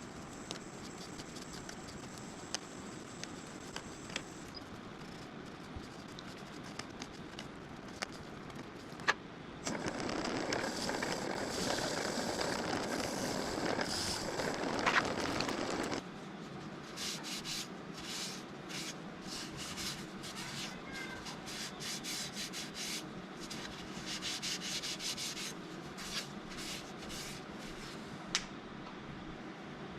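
Sandpaper rubbing against a mesquite bowl turning on a wood lathe, over the lathe's steady running. It gets louder for several seconds in the middle, then turns into a run of short, quick scuffs.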